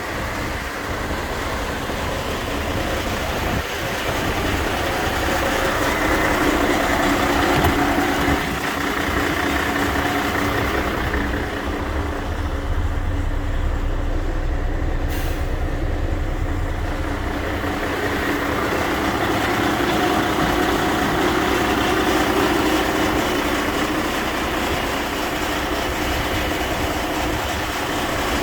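Mercedes-Benz Actros 1831 4x4 truck's diesel engine running steadily, its tone shifting somewhat partway through, with a single short click near the middle.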